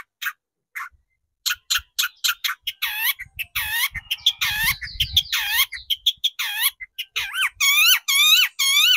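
Long-tailed shrike (cendet) calling in rapid repeated harsh notes, each note dipping and then rising in pitch. After a brief pause about a second in, the notes come faster and more evenly near the end.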